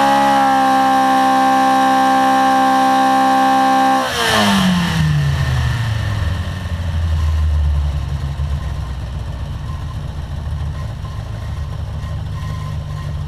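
SRD 2.24-litre all-steel Ford Pinto four-cylinder race engine on a dynamometer, held steady at high revs. About four seconds in the throttle shuts and the revs fall away over a couple of seconds to an idle.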